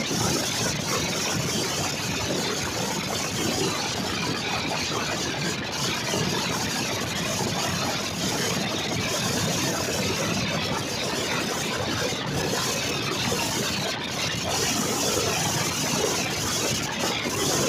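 Passenger train in motion: the steady running noise of the coach and its wheels on the track.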